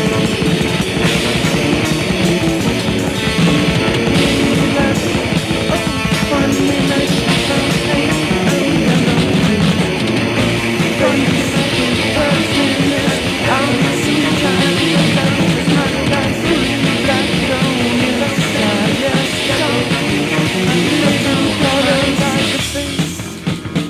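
Rock band playing an instrumental passage, guitars and drums, with no singing. The music drops away sharply about a second before the end.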